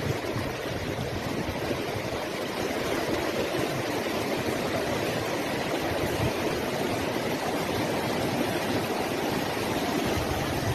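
Running water rushing steadily, an even noise with no pauses or surges.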